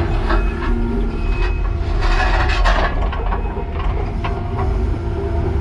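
Kubota compact track loader's diesel engine running under work, with a steady hydraulic-type hum and scattered knocks and scrapes as the tooth bucket works broken concrete, busiest about two to three seconds in.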